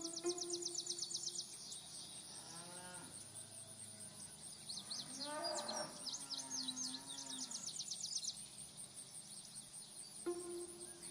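Cattle mooing: two drawn-out calls, the second, about five seconds in, the louder.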